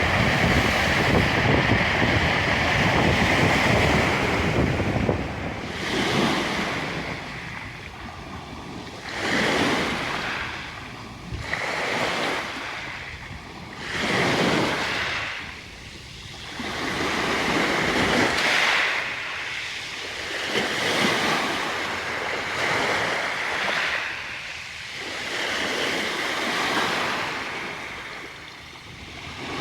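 Black Sea waves washing in on the shore, one surge after another every few seconds, each swelling and falling away.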